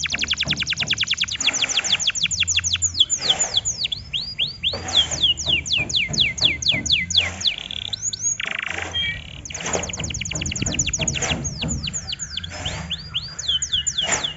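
Canary singing: long fast trills of repeated down-slurred whistled notes, phrase after phrase, broken by brief pauses.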